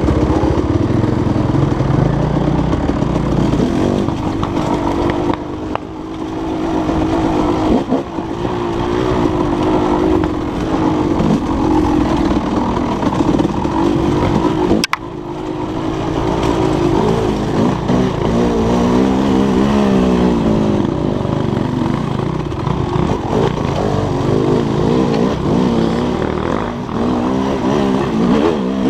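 Dirt bike engine running hard, revving up and down over and over, its pitch rising and falling. There is a sharp click about halfway through.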